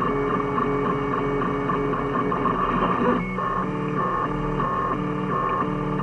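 Home-built 3D printer's stepper motors whining in steady tones that switch pitch every fraction of a second as the print head moves back and forth, with a brief break a little past the middle.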